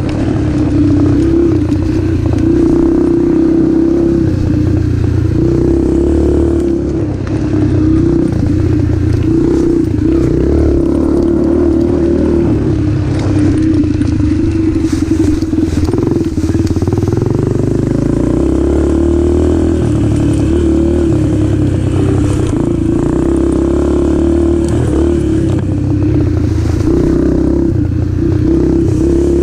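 Yamaha TT-R125 dirt bike's single-cylinder four-stroke engine running on the move, its pitch shifting a little every few seconds with the throttle.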